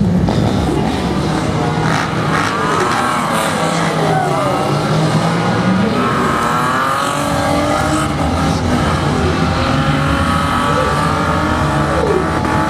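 Stunt show vehicles' engines revving, their pitch rising and falling repeatedly, with what may be tyres squealing.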